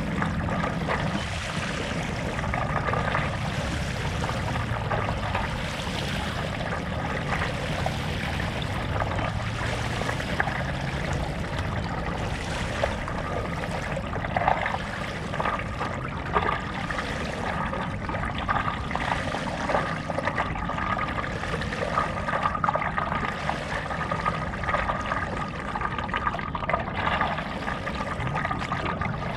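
Stand-up paddle strokes in lake water: steady splashing and trickling as the blade pulls through and water runs off it.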